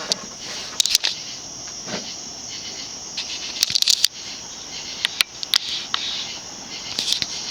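TAT 'UFO' 56-inch industrial ceiling fan running at medium-high speed on a 4-speed wall control: a steady high hiss with a few scattered clicks.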